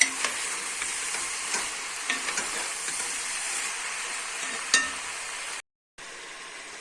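Beef and carrots frying in fat in a pot, sizzling steadily, with a few sharp clicks and knocks of a utensil stirring against the pot, the loudest near the end; the meat is almost cooked. The sound cuts out for a moment shortly before the end.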